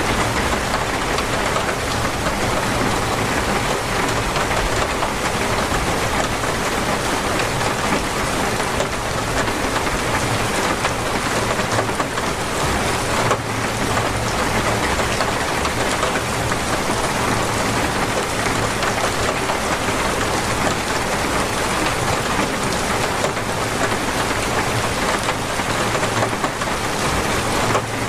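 Torrential rain falling steadily on surfaces, a dense unbroken hiss.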